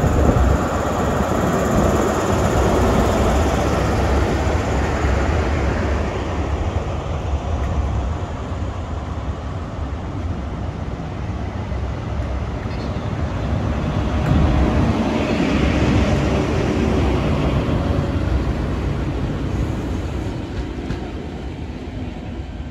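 Class 43 HST power cars and Mk3 coaches passing by, a steady rumble of diesel engine and wheels on rail. It swells again about two-thirds of the way through as the rear power car goes by, then fades as the train draws away.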